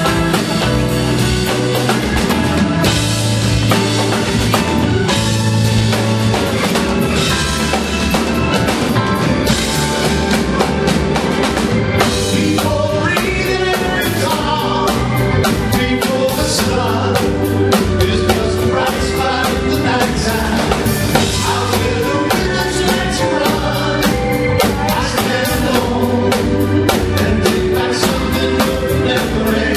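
A live rock band playing, with a lead singer's vocals over a drum kit keeping a steady beat on bass drum and snare.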